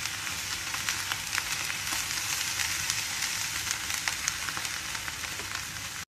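Cauliflower and carrots sizzling in hot oil in a frying pan as they are stir-fried: a steady hiss with frequent crackles, cutting off abruptly at the very end.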